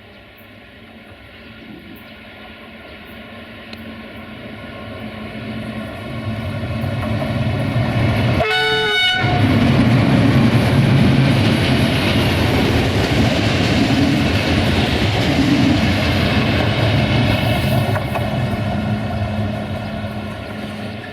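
A train approaching and passing: its rumble builds for several seconds, and a short horn toot sounds about eight and a half seconds in. Loud wheel-on-rail and motor noise follows, then eases off near the end.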